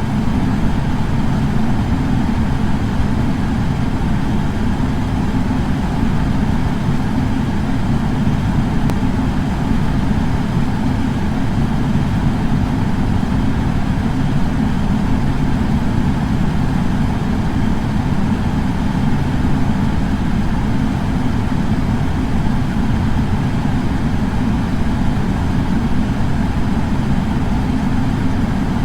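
Air purifier fan running steadily: an unchanging low hum of moving air.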